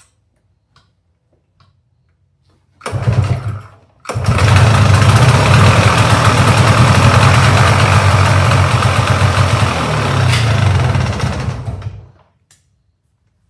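Liquid-cooled two-stroke engine of a Polaris Sportsman 400 ATV starting after a long no-start. It fires briefly about three seconds in and stops, then catches again and runs steadily for about eight seconds before dying away. The owner says its carburettor needs a rebuild.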